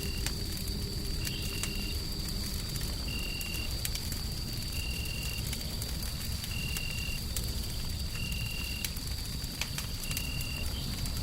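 Wood fire crackling, with scattered sharp pops over a steady low rumble of noise. Throughout, a short high chirp repeats about every second and a half to two seconds, over a faint steady high tone.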